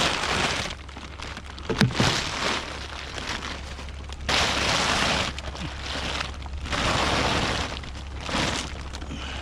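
Rummaging through a pile of junk and trash: several bursts of rustling, scraping and crinkling as items are shifted and handled, with a sharp knock about two seconds in.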